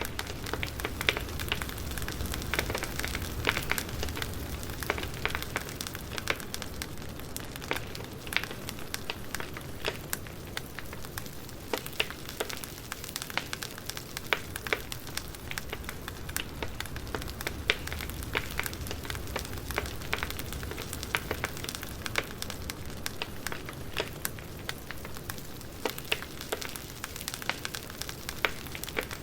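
Wood fire crackling: a steady hiss and low rumble with frequent, irregular sharp pops and snaps.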